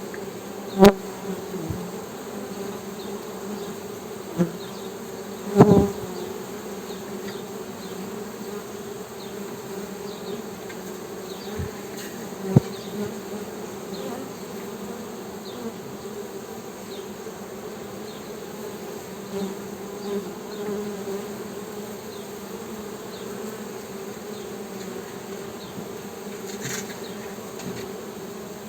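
Honey bees humming: a steady, low buzzing drone, with a few brief sharp louder moments about a second in, around six seconds and around twelve seconds.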